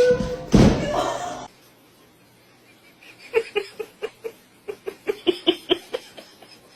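A loud, noisy sound for the first second and a half, then after a pause someone laughing in a run of short, quick bursts.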